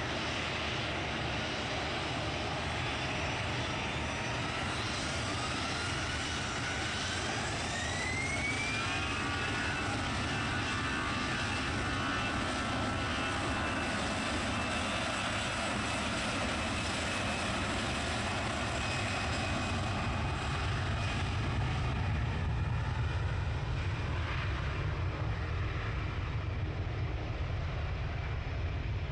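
Jet airliner engines spooling up for takeoff on the runway: a whine rises over a few seconds, then levels off into a steady high tone over a broad rumble that grows louder past the middle.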